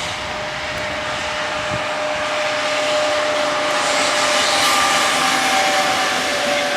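Electric train approaching and running through the station, its sound growing slowly louder, with a steady high whine held throughout.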